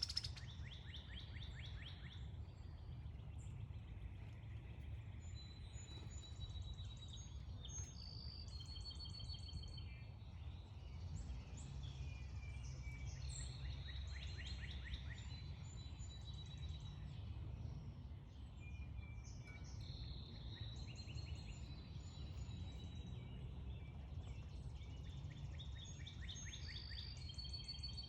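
Several backyard songbirds calling, with short high chirps and whistled notes throughout and a few rapid trills, over a steady low background rumble.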